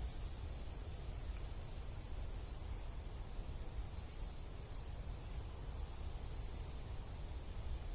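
An insect, cricket-like, chirping in short pulsed groups, high-pitched and repeating every second or so, over a low steady rumble.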